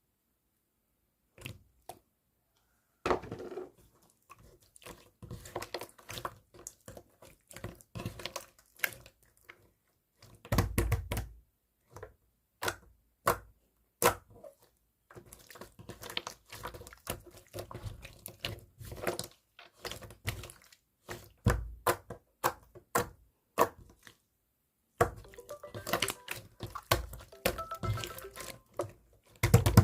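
Clear slime being pressed and poked by hand, making irregular sticky clicks, pops and squelches as trapped air bursts. The sounds thicken into quick runs near the end.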